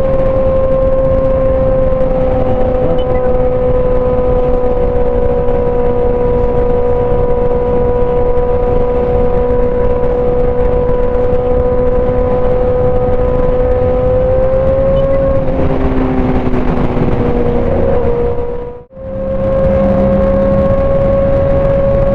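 Sport motorcycle engine holding a steady high cruising note at highway speed, with wind rushing over the microphone. About two-thirds of the way through the note wavers for a couple of seconds, then the sound drops out for an instant before the same steady drone resumes.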